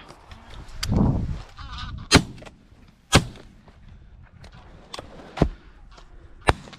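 Shotgun shots during a goose hunt: about five sharp reports spaced a second or so apart, with a goose calling briefly between the first two shots.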